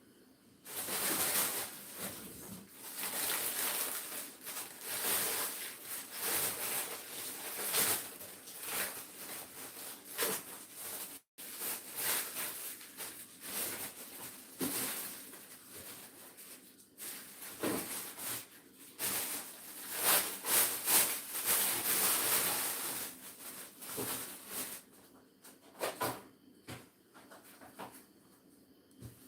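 Shredded chicken frying in a pan for chicken flakes: a sizzling hiss that rises and falls, with a sudden break about eleven seconds in, dying down to a few light knocks near the end.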